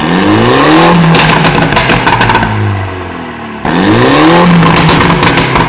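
A 2021 Mini Cooper S's turbocharged four-cylinder engine revved hard through its JCW exhaust: twice the pitch climbs, holds high with a rapid crackle, then falls back.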